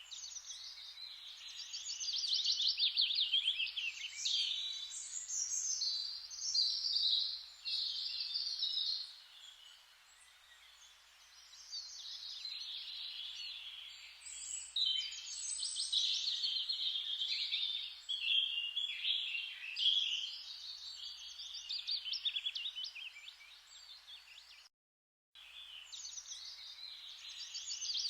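Songbirds singing a busy run of fast, high chirps and rapid trills, phrase after phrase, over a faint hiss, with a quieter lull partway through. A brief gap of total silence cuts in about three seconds before the end.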